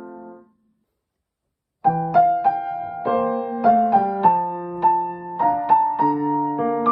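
A keyboard playing one of the Hokuriku Shinkansen station or on-board melodies, worked out by ear. A held chord dies away, and after about a second of silence a new melody of struck notes over chords begins.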